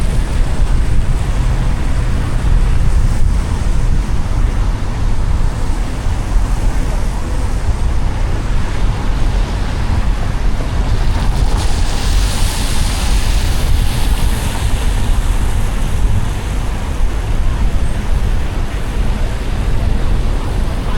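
Car driving on a wet road: steady road and tyre noise with a heavy low rumble. A louder hiss of water spray swells from about halfway through and fades a few seconds later.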